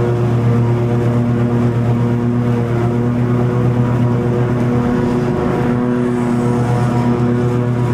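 Toro TimeCutter 50-inch zero-turn mower running steadily while cutting long grass. Its pitch wavers briefly about five to six seconds in.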